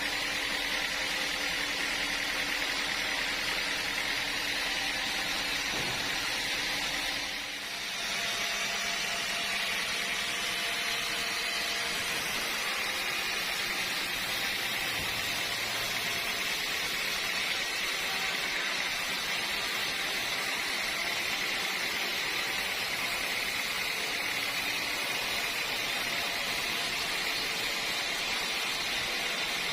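Sawmill machinery running steadily, an even mechanical noise. About seven seconds in the level dips briefly and the low hum underneath changes.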